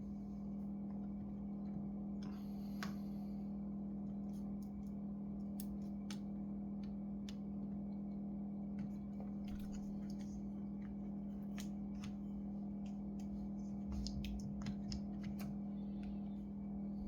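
Scattered small clicks and taps from handling laptop parts and small tools, over a steady low electrical hum.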